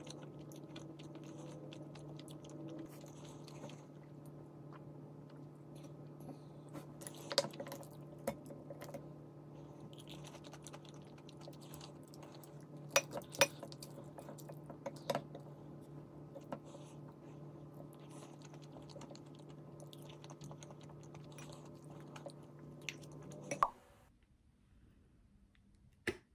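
Food being chewed and crunched close to the microphone, with scattered sharp clicks. Under it runs a steady hum that cuts off suddenly near the end.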